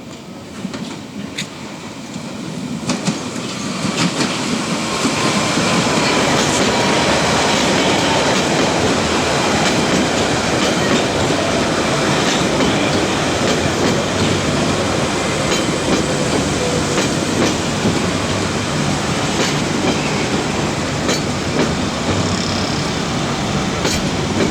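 London Underground 1992 Stock Central line train arriving at a platform: its noise builds over the first few seconds into a loud, steady run, with wheels clicking over rail joints and a tone falling slowly in pitch as the train slows.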